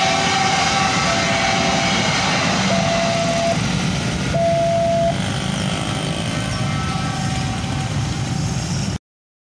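A passenger train runs past a level crossing with a steady rumble of wheels on rail, while the crossing's warning bell keeps ringing. Two short held horn tones sound near the middle. The noise eases once the train has cleared, then cuts off suddenly about nine seconds in.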